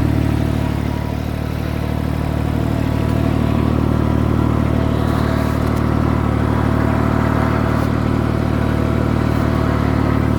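Tractor engine running steadily, dipping slightly about a second in and then picking back up.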